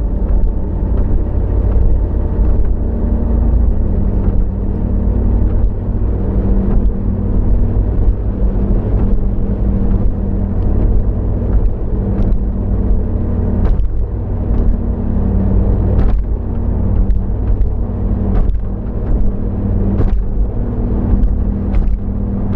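Car driving: steady low rumble of engine and road noise with a constant hum, and faint ticks scattered throughout.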